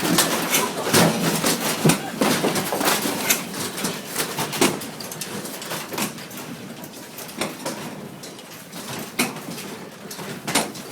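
Upper floor of a building shaking in a strong earthquake: loose fittings and objects rattling and knocking in quick irregular clatters, busiest in the first few seconds, then thinning out and growing quieter.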